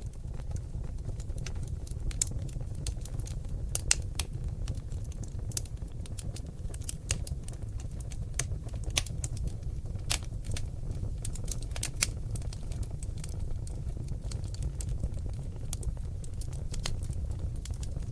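Seasoned oak logs burning in a fireplace: irregular sharp crackles and pops, several a second, over a steady low rumble of the flames. A few pops stand out louder, around four seconds in and near the middle.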